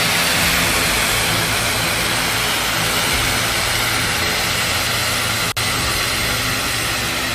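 Aircraft engine running steadily on the tarmac: a loud, even noise over a low hum. The sound cuts in and out abruptly and drops out briefly twice, the second time near the end.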